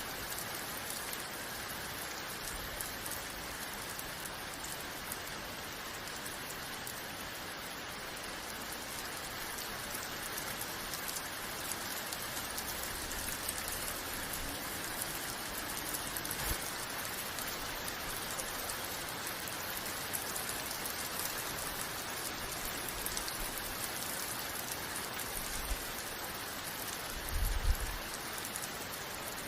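Steady rain falling on a surface, an even hiss of drops. A few brief low thumps come through it, the loudest about two seconds before the end.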